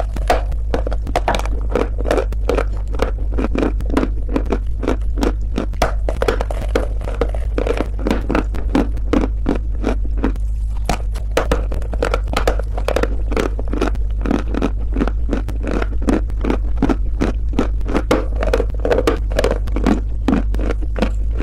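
Close-up crunching of hard clay chunks being bitten and chewed, a dense run of crisp crunches and scrapes, several a second, over a steady low hum.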